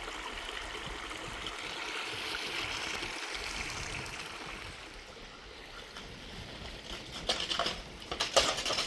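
Water running steadily, a hiss that fades after about five seconds, followed by several sharp knocks and clatters in the last two seconds.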